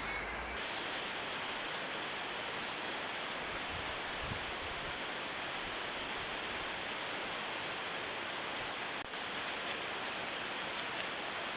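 Steady, even hiss of background noise with a faint thin high whine above it, and no distinct events.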